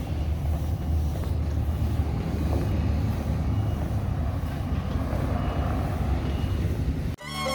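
Steady low rumble of motor-vehicle traffic in the street. It cuts off abruptly near the end, where music begins.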